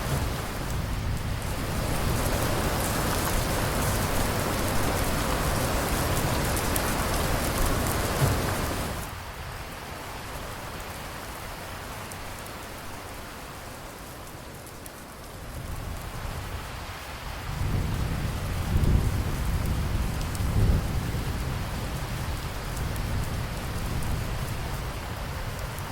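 Thunderstorm: rain falling steadily with rolling thunder. Heavy rain with a low rumble underneath drops abruptly to lighter rain about nine seconds in, then a deep thunder rumble builds again past the middle, with two louder claps close together, before easing off.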